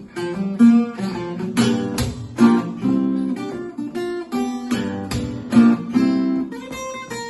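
Acoustic guitar strummed in chords with a steady beat, playing a song's instrumental intro before the vocals begin.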